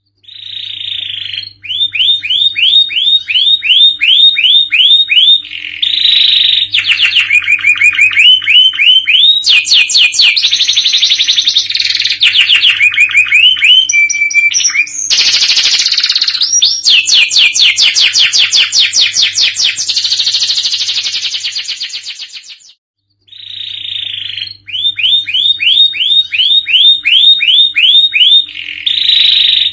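Domestic canary singing loudly in long runs of rapid, evenly repeated trill notes and rolls, changing from one trill type to the next. The song stops briefly about 23 seconds in, then starts over with the same phrases, over a faint steady low hum.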